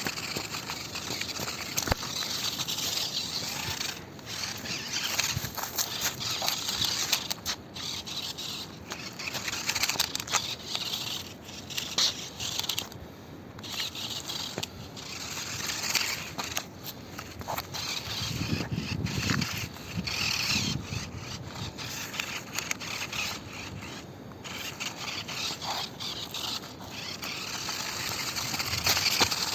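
RC monster truck driving over rough ground: tyres and chassis scraping and crackling on dirt and stones, with the sound dropping away briefly several times as the truck stops and starts.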